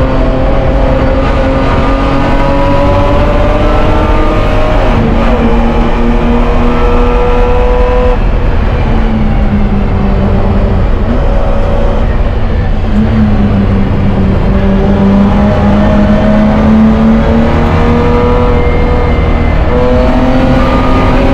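BMW E30 race car's engine running hard at high revs, heard loud inside the stripped cockpit. Its pitch sags and climbs slowly through the corners, with abrupt drops about 5 and 8 seconds in.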